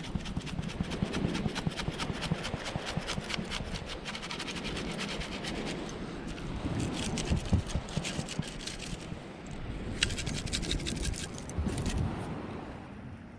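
Gritty scraping and rattling of sand as a metal detecting target is dug out and sifted, a dense run of fine scratchy clicks.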